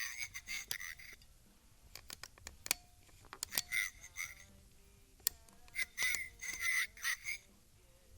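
Talking Small Soldiers action figures' voice boxes playing recorded lines through their tiny speakers, very low and tinny, in several short bursts, with sharp clicks in between.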